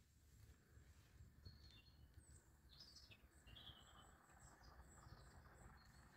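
Near silence, with faint scattered bird chirps and twitters.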